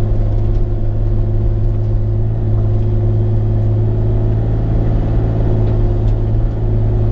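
Bobcat E35 mini excavator's diesel engine running at a steady speed, a constant low hum with no change in pitch.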